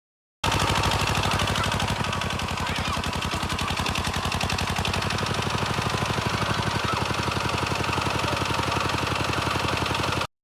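Small engine running steadily with a fast, even beat; it starts abruptly just after the start and cuts off suddenly near the end.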